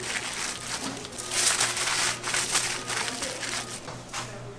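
Irregular crinkling and crunching handling noises, dying down near the end.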